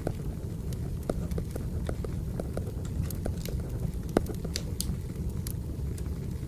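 Wood fire crackling: a steady low rumble with irregular snaps and pops from burning logs. Pencil strokes scratch on paper over it, thickest from about three to five seconds in.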